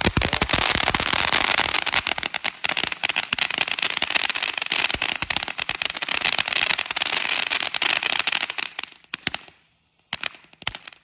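Consumer firework fountain crackling: a dense, continuous spray of sharp pops that thins out and dies away near the end, leaving a few last scattered pops.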